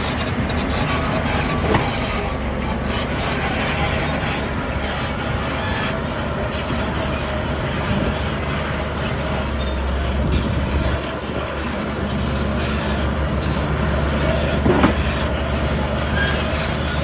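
Heavy diesel construction machinery, bulldozer and dump truck, running steadily with a low engine rumble, with a couple of brief knocks.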